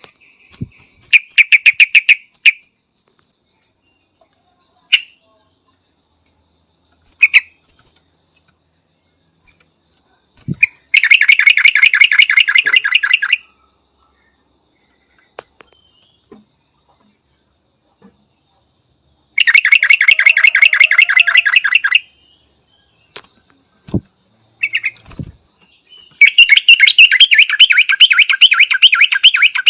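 Yellow-vented bulbul calling: four bursts of fast chattering, each a second or two long and made of rapid, evenly repeated notes, with a few single short notes in between.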